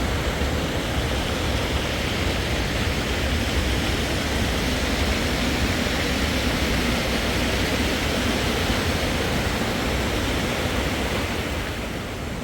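Steady outdoor rushing noise with no distinct events, easing slightly near the end.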